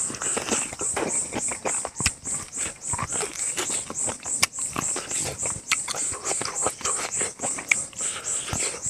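Close-miked chewing and wet lip-smacking of a man eating rice and pork with his fingers, in many short irregular mouth clicks and smacks. Behind it runs a steady high-pitched chirping that pulses about four to five times a second.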